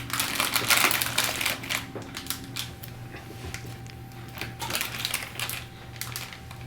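A plastic blind-bag packet crinkling and tearing as it is opened, densest and loudest in the first couple of seconds, then scattered small clicks and rustles as it is handled.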